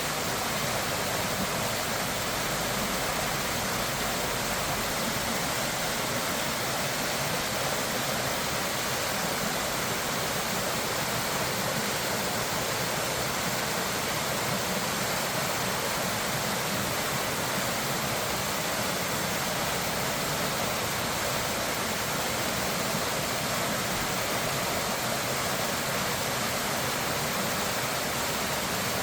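Steady rushing of floodwater or a waterfall, an even roar with no breaks or changes.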